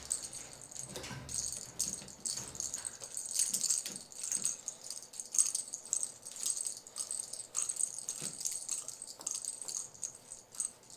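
Bell inside a toy ball jingling and rattling in short, irregular bursts as the ball is grabbed, shaken and rolled, with scattered light knocks.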